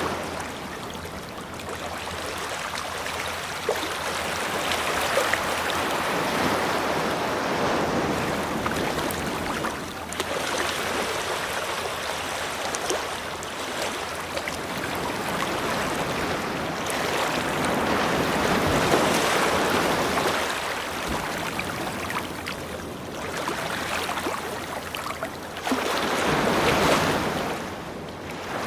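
Ocean waves washing on a beach, a continuous rush of surf that swells and falls back every few seconds.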